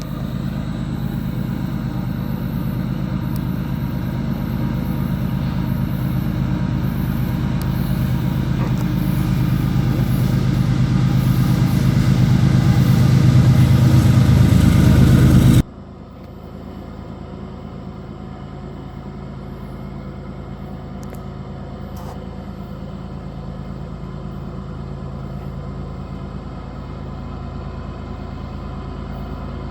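Freight train with diesel locomotives running by: a heavy rumble with a steady engine drone that grows louder for about fifteen seconds. It then cuts off suddenly to a quieter, steady rumble.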